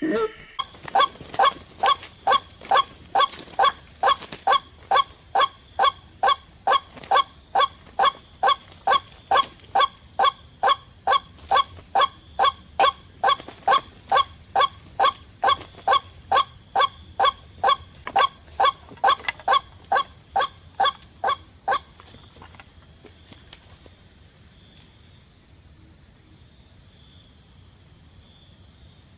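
A bird calling in a fast, even series of short calls, about two a second, stopping about 22 seconds in. A steady high insect-like drone runs underneath throughout.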